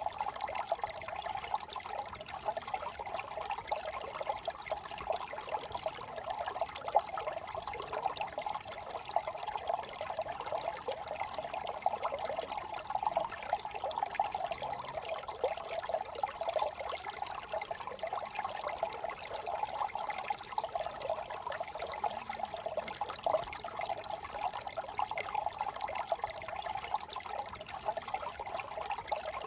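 Small brook trickling and burbling over stones, a steady, even flow of water.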